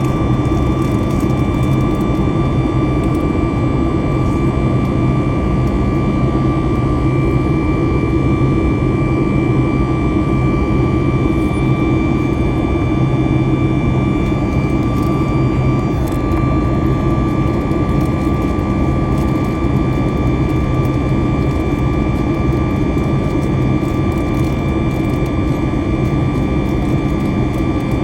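Jet airliner engines heard from inside the passenger cabin: a loud, steady drone with a constant high whine.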